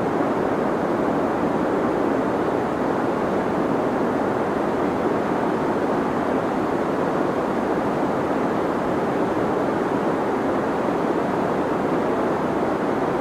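Deep white noise for sleep: a steady, even rushing hiss, dark in tone with little treble.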